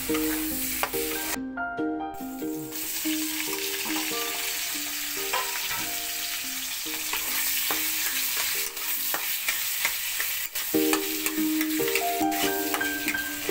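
Vegetable pieces sizzling in hot oil in a pan, stirred and turned with a metal spatula that scrapes and clicks against the pan. A plucked-string tune plays over it, dropping out for a few seconds past the middle.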